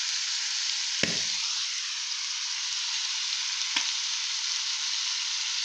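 Prawns and squid rings sizzling steadily in a hot frying pan, with two short knocks, about a second in and just before four seconds.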